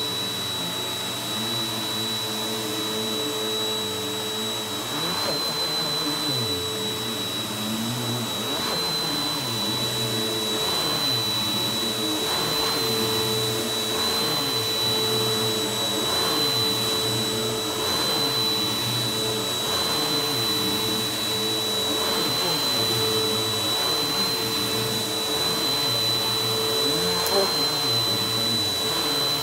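Vacuum cleaner running over a rug with a steady high whine. Its lower hum rises and falls every couple of seconds as it is pushed back and forth.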